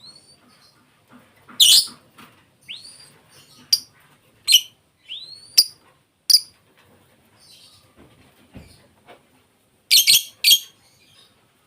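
Lovebird calling with short, shrill chirps at irregular intervals, mixed with a few short rising whistles. A quick run of three loud chirps comes near the end.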